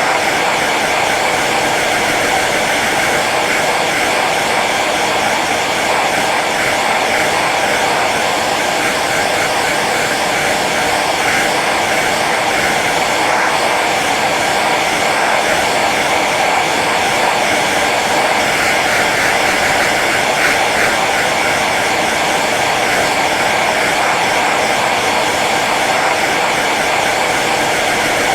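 Hair dryer running steadily on its low setting: an even rush of air with a faint motor hum underneath.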